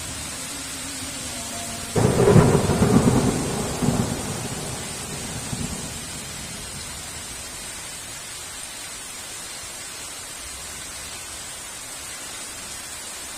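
A thunderclap over steady heavy rain: a sudden crack about two seconds in, followed by a rumble that fades away over the next few seconds.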